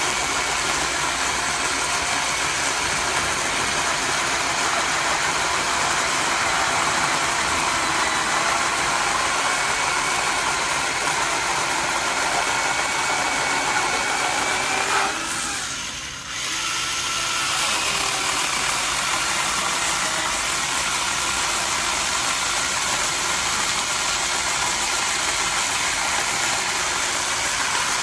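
Worcraft 40V cordless electric chainsaw running, a steady motor whine with chain noise. About halfway through it briefly slows and drops in pitch, then picks back up.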